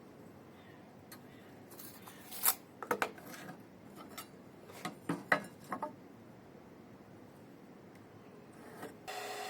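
A scattering of light knocks and clicks, as of wood and tools being handled at the bench, then near the end a bandsaw's electric motor switches on and runs with a steady hum.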